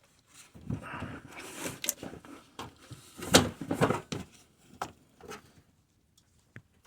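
Scattered knocks, clunks and rubbing of the radiator and AC condenser being handled and lowered, the sharpest knock about three and a half seconds in.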